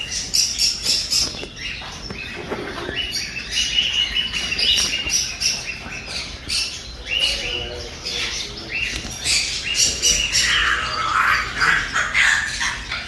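Many caged birds chirping and squawking over one another, short repeated calls overlapping throughout.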